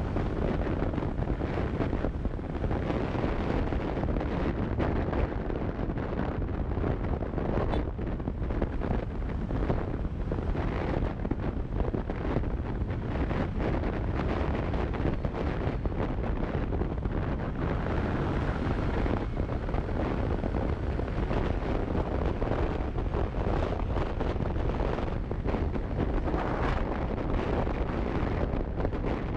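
Steady wind noise buffeting a GoPro Hero4 Silver's microphone on a moving motorcycle, a constant rush heaviest in the low end, with the motorcycle's running noise underneath.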